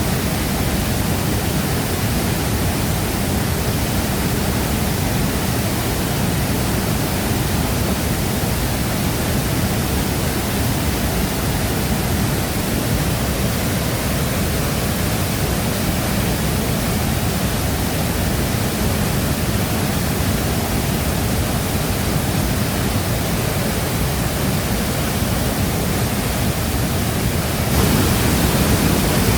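Shifen Waterfall pouring steadily, a dense, unbroken rush of falling water that grows slightly louder near the end.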